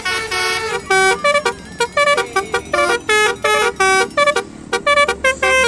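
Multi-tone telolet bus horn playing a tune as a quick run of short notes that jump up and down in pitch, over a steady low hum.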